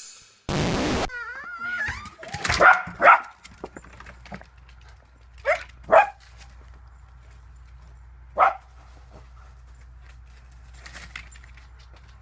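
A dog whining and then barking: a wavering whine, then five short barks, in two pairs and then a single one. A brief burst of noise comes just before the whine.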